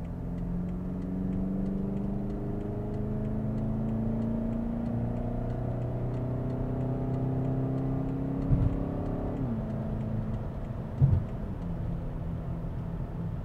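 A 2016 BMW X5 M's twin-turbo V8 accelerating under the load of a towed travel trailer to pass, its pitch rising steadily for about nine seconds, then dropping suddenly and settling into a steady cruise. Two brief thumps come a little before and after that drop.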